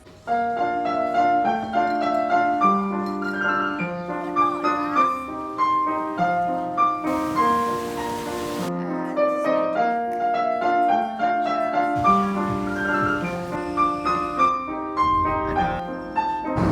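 Solo piano background music, a gentle melody over chords.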